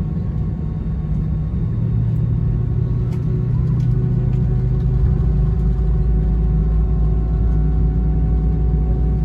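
Cabin noise aboard an Airbus A319 airliner: a steady low rumble with a hum of several steady tones, growing a little louder about two seconds in.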